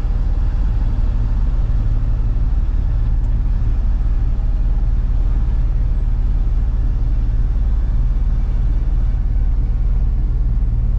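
Box truck's engine running with a steady low rumble while the truck drives slowly.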